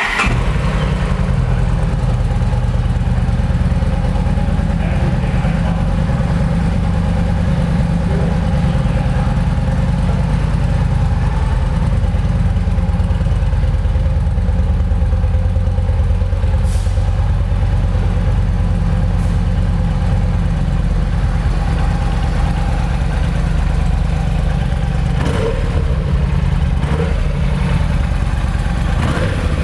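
2009 Yamaha XVS950 V-Star 950's air-cooled V-twin engine, through its stock exhaust, firing up and then idling steadily.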